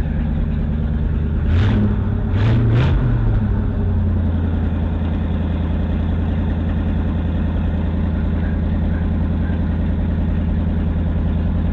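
1959 Ford Thunderbird V8 engine running. It is revved up and down a few times about two seconds in, then settles into a steady idle, now running well after the no-start repair.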